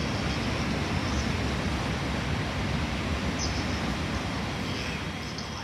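A train running along the tracks: a steady low rumble with a rushing noise, easing off near the end.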